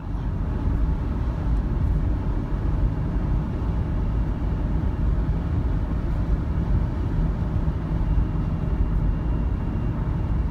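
Steady engine and road noise of a Nissan NV200 van driving, a continuous low rumble.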